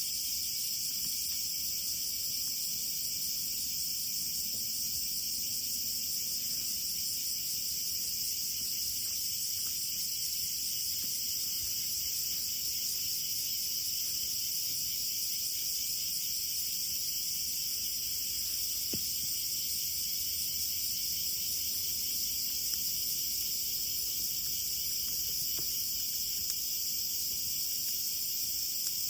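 A steady, high-pitched chorus of insects, dense and unbroken, with a couple of faint clicks in the second half.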